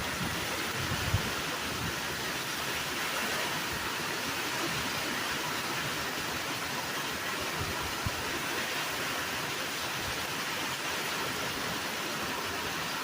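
Heavy rain falling in a steady hiss, with two small knocks, about a second in and about eight seconds in.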